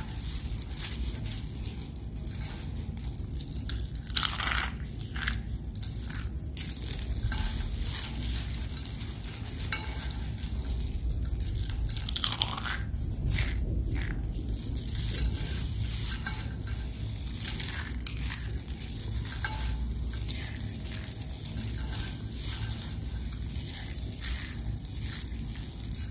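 White bar soap being crushed: irregular crunching and crackling, with a few louder crunches about 4 seconds in and again around 12 to 14 seconds.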